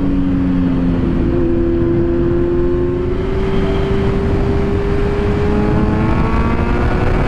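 Kawasaki Z900's inline-four engine pulling under way on a ride, its note climbing steadily for several seconds and dropping near the end as it shifts up, under heavy wind rumble on the microphone.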